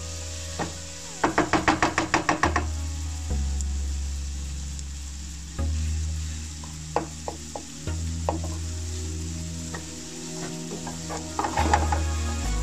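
Diced potatoes, onion and tomato sizzling in oil in a nonstick frying pan while a spatula stirs them, scraping and tapping against the pan. A quick run of about eight strokes comes a little after a second in, a few single knocks follow, and another cluster of strokes comes near the end.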